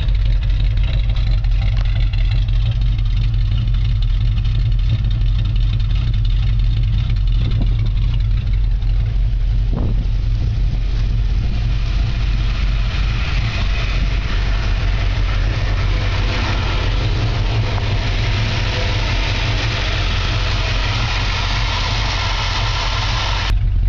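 1964½ Ford Mustang engine running steadily at idle, its exhaust note deep and even.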